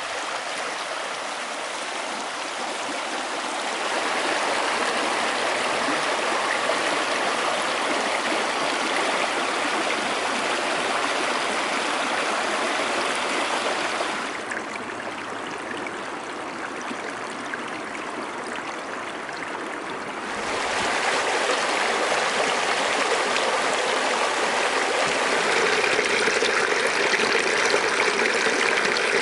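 A small creek running and trickling over rocks, a steady rush of water. It grows louder a few seconds in, turns quieter and duller for several seconds just past the middle, then comes back louder and brighter.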